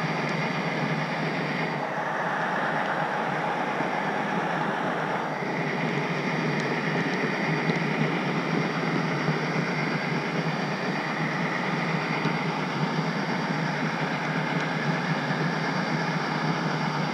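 HO scale model train running, a steady rolling noise of small metal wheels on the track picked up from the caboose, with a faint steady high tone above it.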